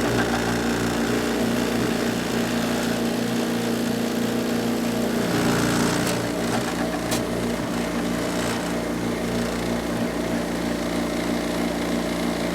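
Copeland Copelaweld U two-cylinder, four-pole hermetic refrigeration compressor running with a steady hum and a heavy vibration, its internal mounting springs gone so the motor-compressor sits loose in the shell.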